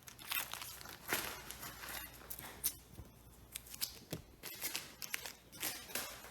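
Irregular light rustling, scraping and clicks of handling, a dozen or so short sounds with small gaps between them.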